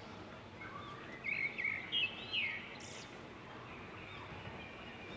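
Small birds chirping in the background over a faint steady hiss: a cluster of short rising and falling calls about one to two and a half seconds in.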